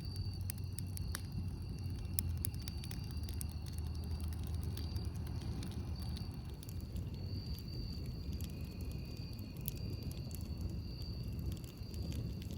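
Campfire crackling, with scattered sharp pops over a steady low rumble. Thin high-pitched tones hum in the background, stopping and starting again.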